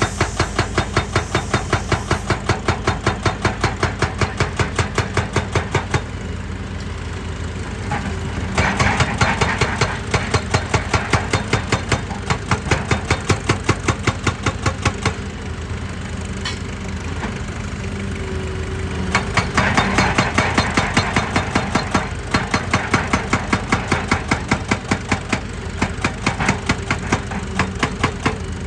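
Excavator-mounted hydraulic percussion tool hammering at rock in rapid, even blows, about four a second, over the machine's running diesel engine. The blows pause briefly a few times while the engine keeps running.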